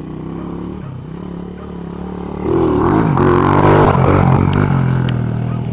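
A 110cc dirt bike engine running, then revved harder about two and a half seconds in, its pitch swinging up and down before it eases back near the end.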